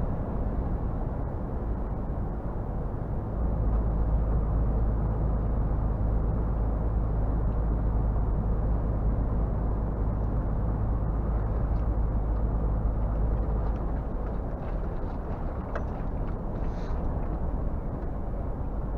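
Scania R450 truck's 13-litre six-cylinder diesel running as the truck drives, a steady low rumble with road noise. It grows louder about three and a half seconds in, and a few faint ticks come near the end.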